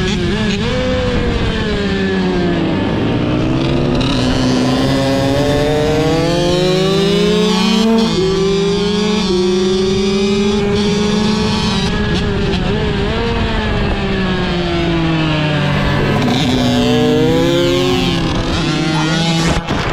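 Motorcycle engine running under load while being ridden. The pitch climbs as it revs and drops suddenly at each gear change, several times over.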